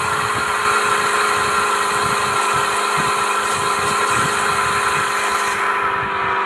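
Mahindra Thar's engine running at steady revs off-road, its pitch drifting slowly lower, with irregular low rumbling and knocks underneath.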